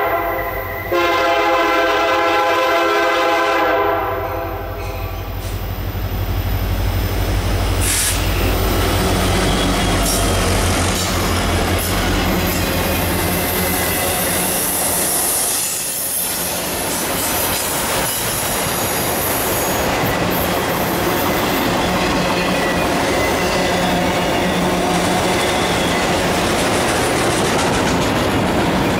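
Union Pacific SD70M diesel locomotive's air horn sounding several tones at once, with a short break near the start, ending about four seconds in. The lead SD70Ms' diesel engines then pass close by with a deep rumble, followed by a long string of autorack freight cars rolling past with steady wheel clatter and a high wheel squeal in the middle.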